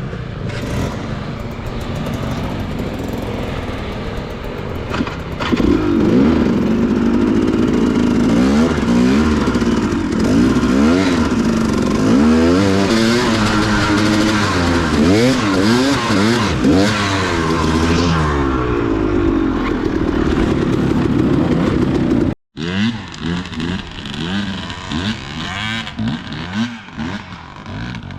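Dirt bike engine revving up and down in repeated throttle blips, louder from about six seconds in. The sound cuts out abruptly for a moment about three quarters through, then the engine runs on more quietly.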